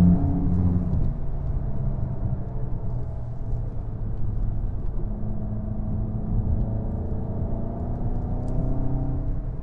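2017 Volkswagen GTI's turbocharged 2.0-litre four-cylinder engine running under way with road and tyre noise. It is loudest for about the first second, then eases off, and in the second half the engine note climbs steadily as the car accelerates.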